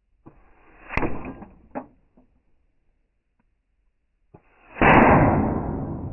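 Two .22 shots, each a sharp crack with a dull rumbling tail. The second comes about five seconds in and is louder, with a longer tail.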